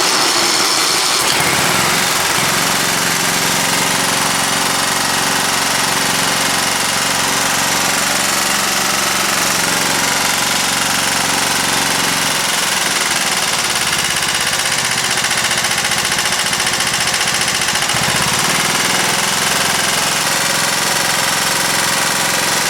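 John Deere L160 riding mower's single-cylinder engine running with a heavy knock, its note shifting about twelve seconds in. The knock comes from a worn crankshaft, left over from a broken connecting rod.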